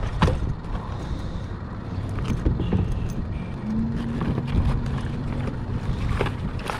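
Wind buffeting the microphone out on the water, with a few sharp knocks and a brief steady hum in the middle.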